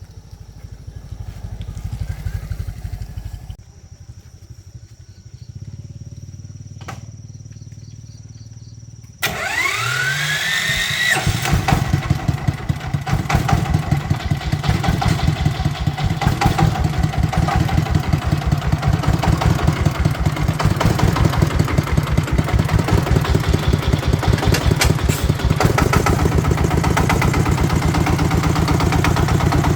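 Tractor engine being started with an electric starter: a rising starter whine for about two seconds, then the engine catches and runs steadily with an even low chugging.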